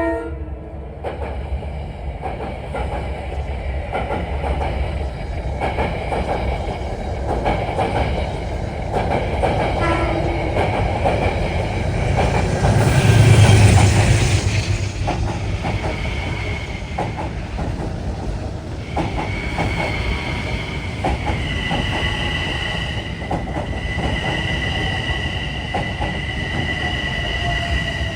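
Inbound commuter trains passing and arriving: wheels clattering over the rail joints, loudest about halfway through, then a steady high-pitched wheel squeal that sets in about two-thirds of the way through as a train slows into the station, with a falling motor whine near the end.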